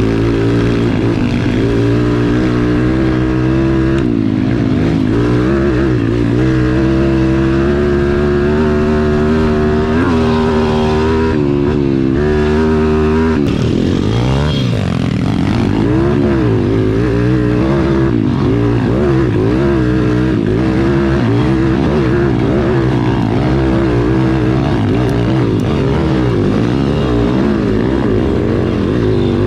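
Pit bike engines running on an off-road trail, their pitch rising and falling with the throttle. About halfway through, the engine notes begin to rise and fall more widely and cross one another.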